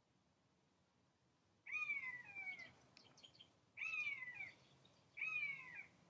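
A bird giving three drawn-out calls that fall in pitch, about two seconds apart, the first nearly two seconds in.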